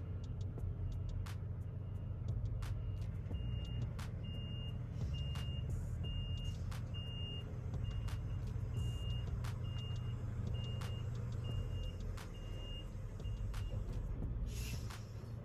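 Backup alarm of a reversing tractor-trailer beeping about twice a second, starting about three seconds in and stopping near the end, over the steady low rumble of an idling diesel truck engine.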